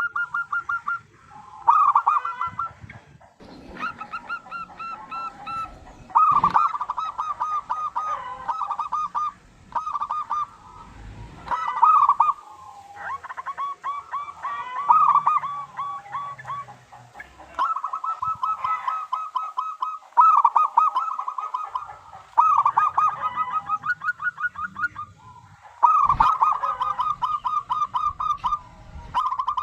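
Zebra dove (perkutut) cooing: bouts of rapid, staccato coo notes a few seconds long, repeated with short pauses between them.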